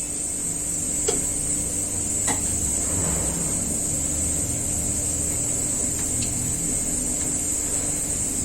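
Steady low mechanical hum with a high, even whine above it, with a few faint clicks.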